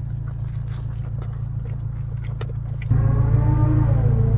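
A man chewing a bite of an Arby's French dip sandwich over a steady low hum. About three seconds in he lets out a long hummed "mmm" of approval.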